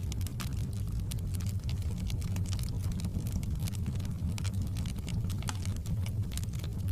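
Wood fire crackling in a fireplace: frequent small, irregular pops over a steady low rumble of the flames.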